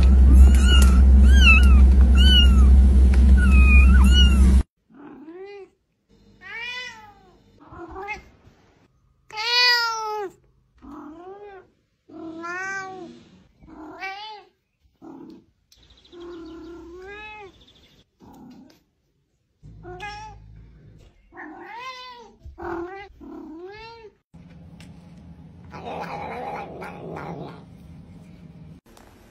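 Domestic cat meowing over and over, about one call a second, some short and some drawn out. Before the meows, the opening few seconds hold a louder passage with a steady low hum under quick chirping calls.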